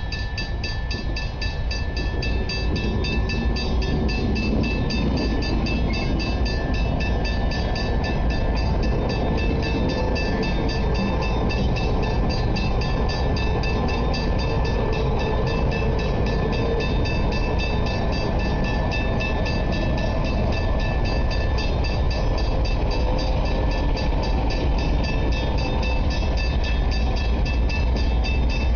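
A lashup of five diesel-electric locomotives, AN-class and NR-class, running light engine with no train behind them. A deep, steady engine rumble builds over the first couple of seconds and then holds, with steady high-pitched tones running above it.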